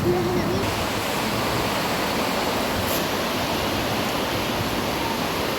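Floodwater rushing with a steady, even roar of water.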